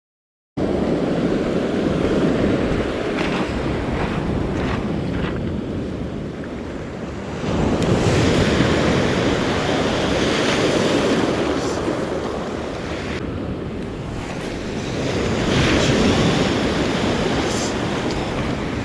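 Ocean surf breaking on a beach, a steady rush that swells up twice as waves come in, with wind buffeting the microphone. It starts suddenly just after the beginning.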